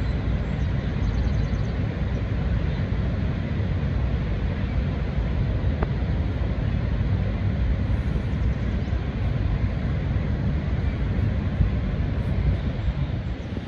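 Niagara Falls: a great mass of water plunging and crashing, heard as a steady, dense rumble with most of its weight low down.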